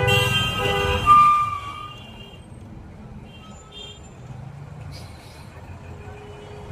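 Vehicle horns honking over an engine's low rumble, with the loudest blast about a second in, then quieter road traffic noise.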